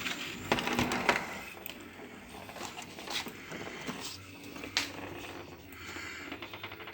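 An O gauge model locomotive running in reverse off a turntable, with a low steady hum under irregular clicks and knocks as its wheels cross the rail gaps. The run is not smooth.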